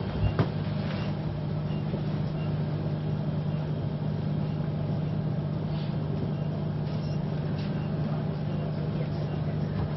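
Steady low mechanical hum, with a couple of short knocks about half a second in.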